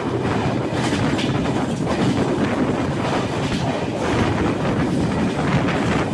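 Express passenger train running along the track, heard from inside the coach by its open door: a steady rumble of wheels on rails, with clicks of the wheels over rail joints here and there.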